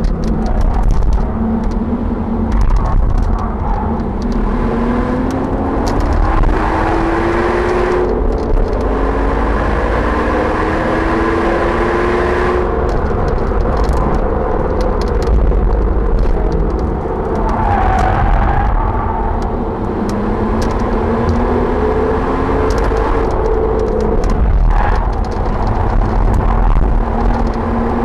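Audi RS4 engine pulling hard at track speed: its note rises and drops back several times as the car accelerates and lifts or shifts. Heavy wind and road rumble is heard inside the cabin, with scattered sharp clicks and rattles.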